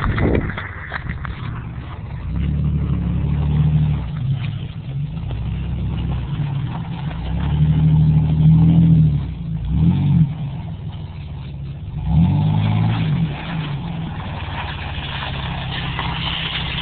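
Pickup truck engine revving hard several times while driving off-road, its pitch climbing and falling in quick rises and drops.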